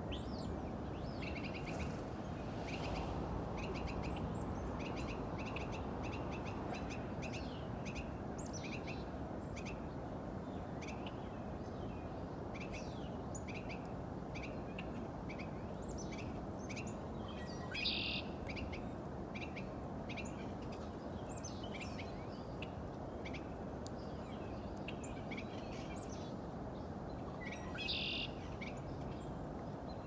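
Small birds chirping, short calls repeated throughout, with two louder calls about two-thirds of the way in and near the end. A steady low background noise runs beneath.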